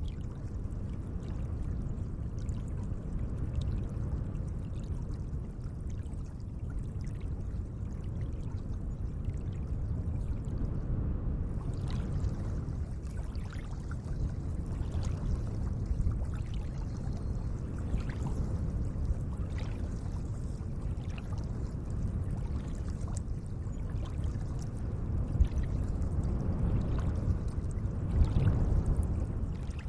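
Lake water moving gently: a steady low wash with small splashes and drips throughout, which come more often in the second half.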